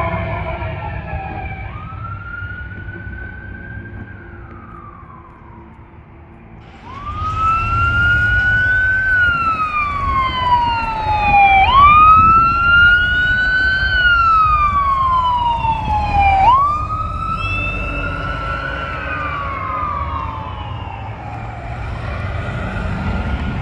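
Fire truck's electronic wail siren sweeping slowly up and down, about one cycle every five seconds, over the rumble of the engine. The siren fades for the first few seconds, then comes in loud about seven seconds in as the truck draws near.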